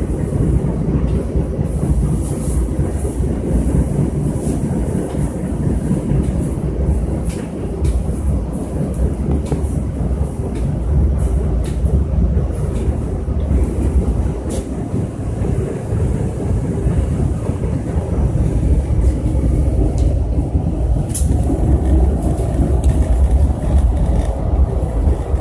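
New York City Subway R68 train running on the track: a steady low rumble with scattered sharp clicks of the wheels over rail joints.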